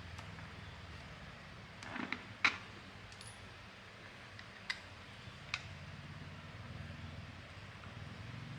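A few light clicks and knocks, a small clatter about two seconds in and two single clicks a few seconds later, over a low steady hum.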